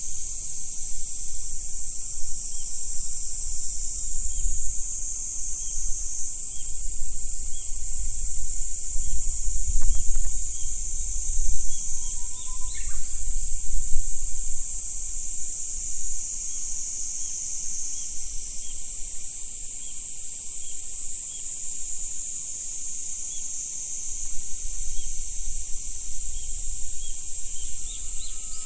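A dense, steady, high-pitched chorus of insects, joined by a bird giving a short rising call about halfway through and again near the end, over a low rumble.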